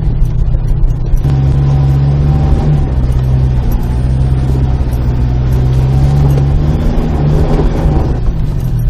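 A 4x4 vehicle's engine pulling at low speed on the trail. It picks up about a second in and holds a steady note, with a couple of brief dips in pitch.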